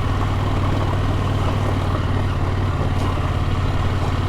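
KTM motorcycle engine running steadily at low revs.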